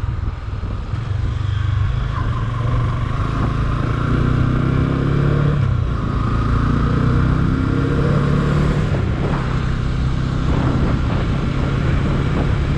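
Motorcycle engine running steadily under way; its pitch climbs and then drops back about halfway through.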